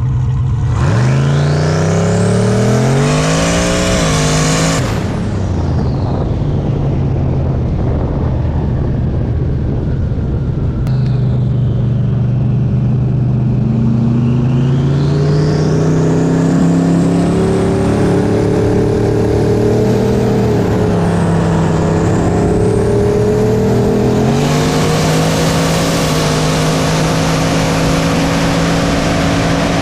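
Turbocharged V8 cars at full throttle in a roll race. The engine pitch climbs about a second in, breaks off near five seconds, then climbs again through a long pull, dropping at gear shifts around two-thirds of the way through and again near the end.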